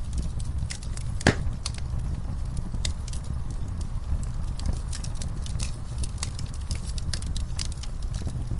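Wood fire in a fireplace crackling, with irregular sharp pops over a low steady rumble; one louder pop about a second in.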